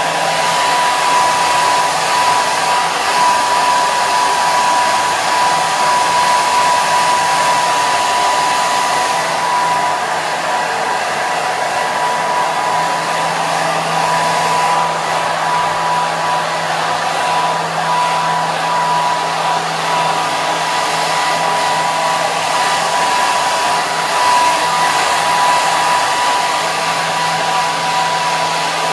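Hair dryer running continuously: a steady rush of air with a constant whine from its fan motor.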